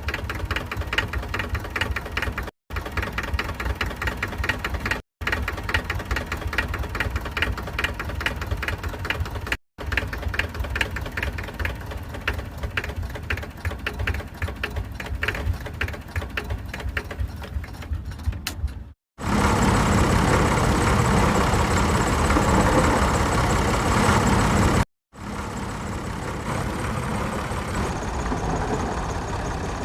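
An engine running with a fast, even chugging beat, heard in short clips joined by abrupt cuts. About two-thirds of the way through it gives way to a louder, steadier, rougher engine noise.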